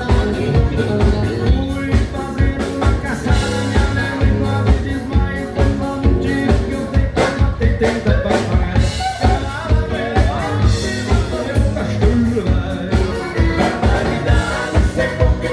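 Vanerão dance music played live by a band: a fast, steady beat in drums and bass, with singing.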